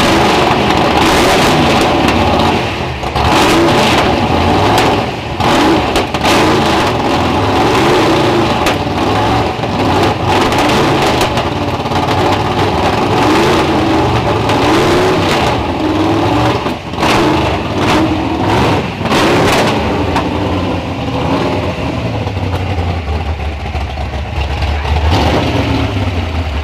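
Drag-race car engines with open exhaust, run loud in repeated throttle blips and revs, then settling to a rough, steadier idle in the last few seconds.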